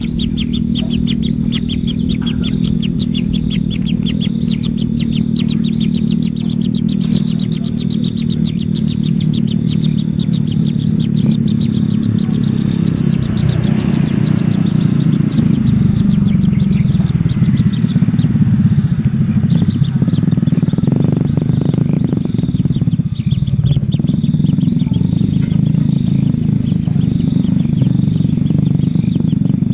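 A steady low rumble with small birds chirping over it: a rapid run of chirps in the first half, then single chirps about once a second.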